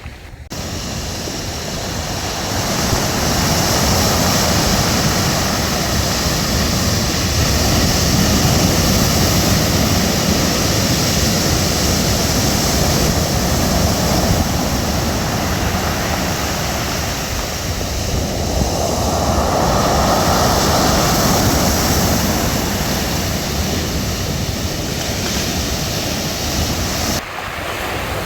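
Sea surf breaking and washing on a beach, a continuous rush of water that swells and eases in slow surges, with abrupt changes just after the start and about a second before the end.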